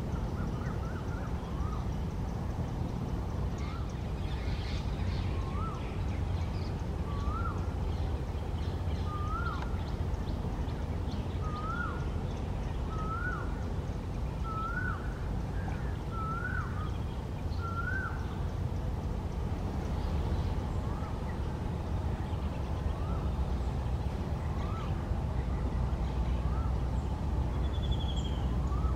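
A bird calling a series of short hooked notes, each rising then dropping, about one a second. The series climbs slightly in pitch and grows louder, then breaks off, and a fainter new series begins. A steady low rumble runs underneath.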